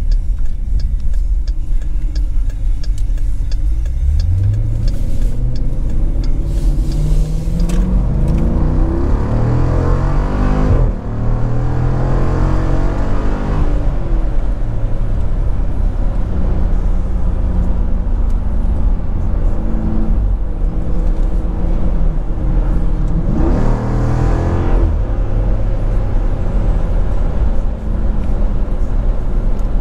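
2017 Jeep Grand Cherokee SRT's 6.4-litre HEMI V8 through a mid-muffler-delete X-pipe exhaust, accelerating on the road. The pitch climbs for several seconds with breaks at automatic upshifts, settles to a steady cruise, then climbs again briefly near the end.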